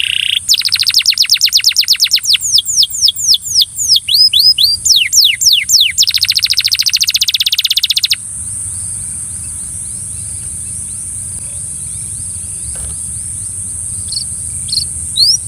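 Belgian canary singing: rapid trills and runs of quick downward-sweeping notes, breaking off about halfway through, with a few single chirps in the lull before the song starts again at the end.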